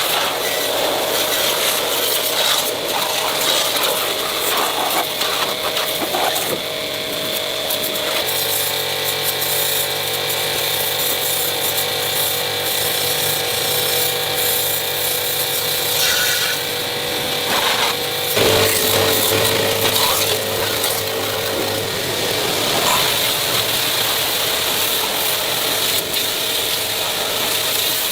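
Repair-shop noise of power tools at work on metal: a steady machine hum with scraping and rattling, its pitch shifting abruptly a few times.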